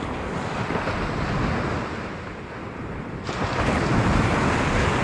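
Sea waves breaking and washing up a beach, with wind buffeting the microphone; one surge builds about a second in and a louder one breaks a little past three seconds.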